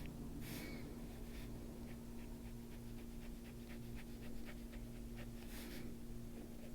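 A drawing tool scratching on a paper colouring page in short, quick strokes, about three to four a second through the middle, with a longer stroke near the start and another near the end. A steady low electrical hum runs underneath.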